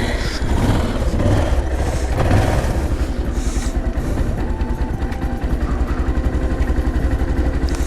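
Motorcycle engine running at idle just after being started, with a brief rise in engine speed about two seconds in.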